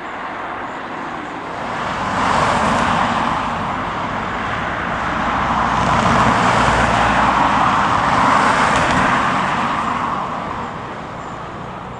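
Jet airliner's engines, a steady rushing sound that swells about two seconds in, holds strongest through the middle and fades near the end as the aircraft passes.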